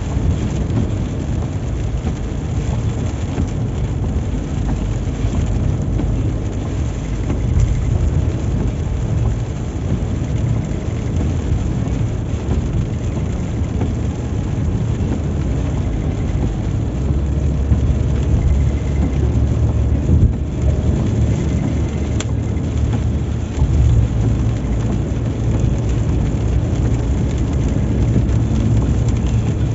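Steady low road and engine rumble of a car driving on a highway in heavy rain, heard from inside the car, with rain on the car over it. The rumble swells for several seconds a little past the middle.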